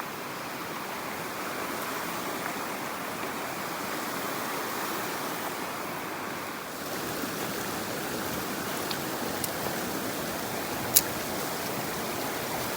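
Mountain stream water rushing steadily over rocks, with a few faint ticks and one sharp click near the end.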